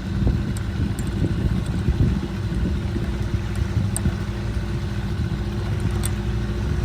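Boat motor running with a steady hum, over a low rumble of wind and rough water.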